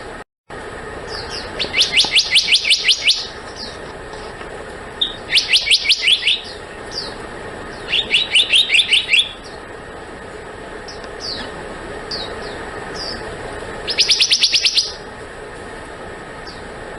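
Black-naped monarch calling: four fast ringing series of sharp repeated high notes, each lasting about a second, with short single down-slurred notes between them.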